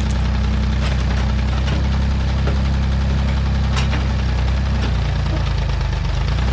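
Old Massey Ferguson backhoe's engine running steadily, with a sharp crack a little past halfway.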